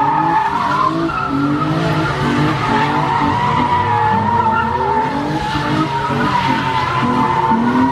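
Car spinning donuts: a sustained, wavering tire squeal over the engine revving up and down again and again, about twice a second.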